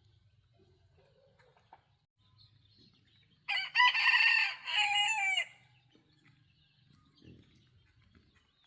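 A rooster crowing once, a loud call of about two seconds that ends on a falling note.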